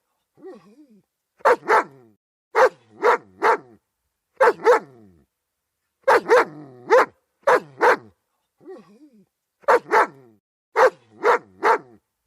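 German Shepherd dog barking repeatedly in quick clusters of two or three barks, with short pauses between clusters. A quieter, wavering vocal sound comes twice, just after the start and about nine seconds in.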